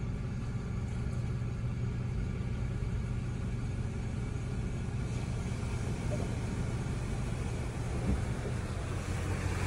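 A car's engine idling, heard from inside the cabin as a steady low hum.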